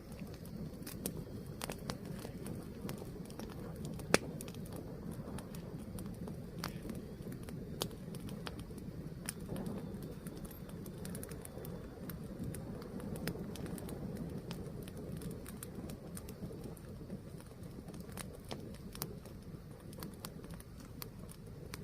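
Fire burning with a steady low rumble and scattered sharp crackles and pops, one much louder pop about four seconds in.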